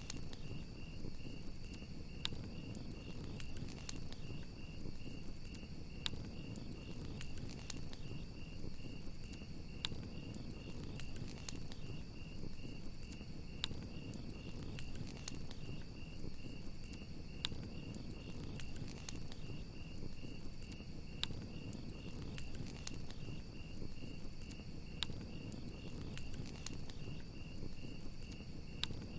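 Crickets chirping in a steady, fast trill, over a crackling fire with sharp pops scattered irregularly throughout and a low rumble beneath.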